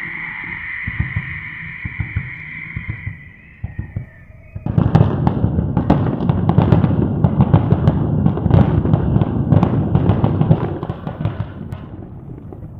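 Fireworks barrage: scattered pops under a steady high-pitched tone, then from about five seconds in a dense, loud run of rapid bangs and crackles that thins out near the end.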